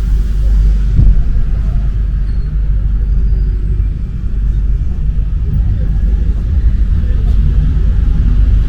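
Rubber-tyred MP 05 metro train running, a steady low rumble with a single knock about a second in.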